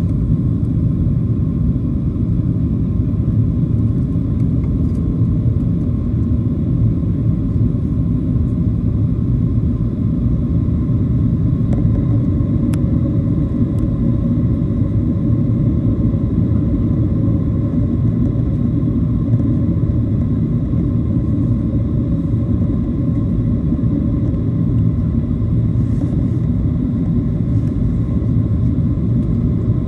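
Steady low cabin rumble inside a Boeing 737-700 airliner: its CFM56 turbofan engines and airflow, with faint steady whining tones over the drone.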